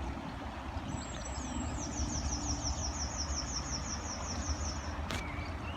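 A small songbird singing a fast run of high, falling notes, about four or five a second, over a steady low rumble.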